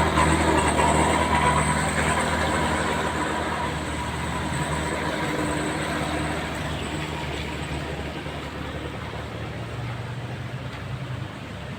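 Tour bus engine labouring up a steep grade after a late gear change, a low drone that fades as the bus climbs away, over the hiss of heavy rain.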